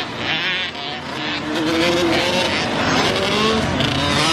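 Several motocross bikes racing around the track, their engines revving up and down over one another.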